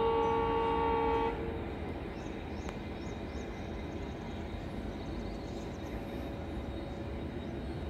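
Train horn blasting a steady chord for about a second and a half, over the rumble of an express train's coaches running along the rails. After the horn stops, the steady rumble of the wheels carries on.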